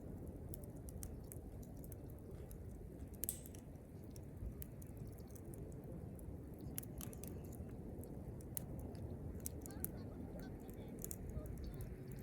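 Wood campfire crackling, with scattered sharp pops and snaps over a low steady rumble; one pop about three seconds in is louder than the rest.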